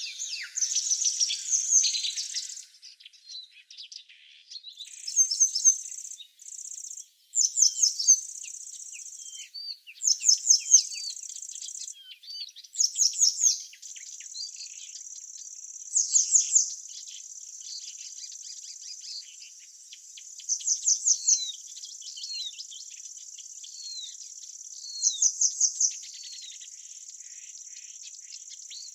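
Songbirds singing in short bursts of rapid chirping notes every few seconds over a steady high insect buzz or trill.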